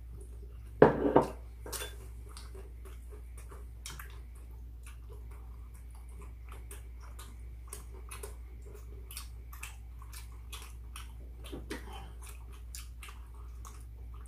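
Close-miked chewing and mouth sounds of someone eating sauced chicken and rice, a string of small wet clicks over a steady low hum. A brief loud burst about a second in.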